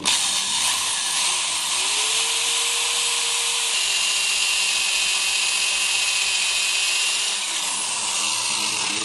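Electric drill boring into the alloy case of a 1600 air-cooled VW engine, starting suddenly and running steadily for about nine seconds before stopping. The motor's pitch drops slightly a few seconds in.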